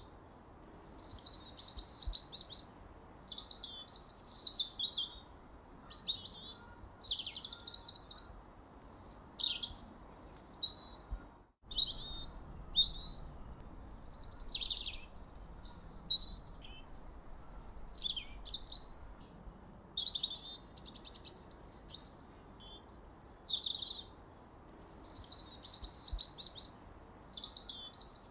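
Birdsong: a steady stream of quick, high chirps and short trills, one after another, with a brief break to silence about halfway through.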